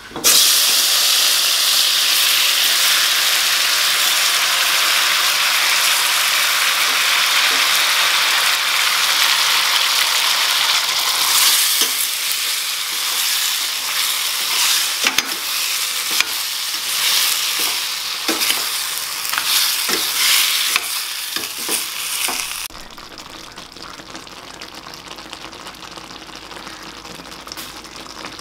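Chopped tomatoes dropped into hot sesame oil in a stainless steel kadai, setting off a sudden loud sizzle. From about halfway through, a steel spoon stirring and scraping against the pan adds repeated clinks and knocks over the frying. Near the end the sizzle drops suddenly to a much quieter hiss.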